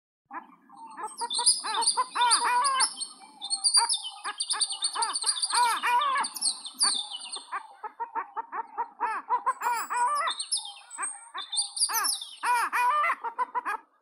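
Several birds chirping and calling at once: rapid, repeated chirps overlapped by higher, thin whistled phrases.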